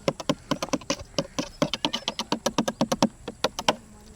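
Knife chopping quickly on a cutting board: a fast run of sharp taps, about seven a second, that stops shortly before the end.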